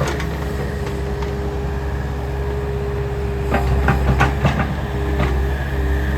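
Takeuchi excavator's diesel engine running steadily under load, with a quick run of sharp cracks and clanks about three and a half to four and a half seconds in.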